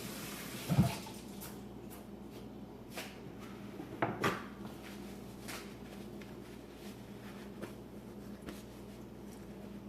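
Running kitchen tap stops in the first second with a dull thump, followed by a few scattered light knocks and clinks of kitchen things being handled, two close together about four seconds in.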